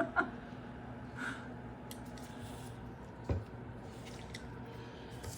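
Light handling noises of an oil seal being worked into a Lambretta engine casing by hand: a couple of small clicks at the start and a single knock a little over three seconds in, over a faint steady hum.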